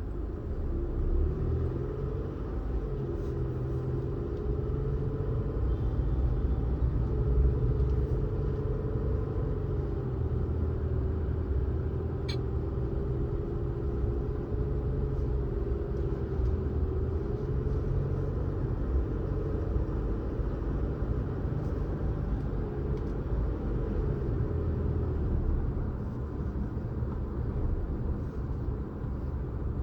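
A car driving: a steady low rumble of engine and road noise, with a hum that wavers up and down in pitch, and a single sharp click about twelve seconds in.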